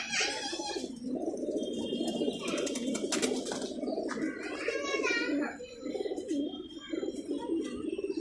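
Pigeons cooing, a continuous low rolling chorus of many birds together.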